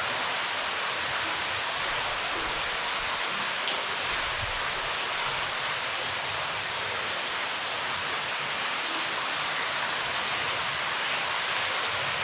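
Water pouring and dripping from the ceiling of a limestone cave into an underground river: a steady, even rushing like rain.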